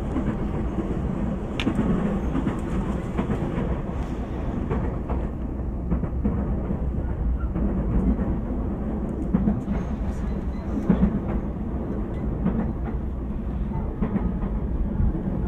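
Running noise of an E233-0 series electric train heard from inside the car: a steady low rumble of wheels on rail, with occasional sharp clacks from the track.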